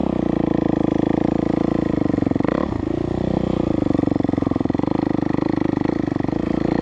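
Dirt bike engine running hard at a fairly steady pitch while riding, with a brief dip in revs about two and a half seconds in.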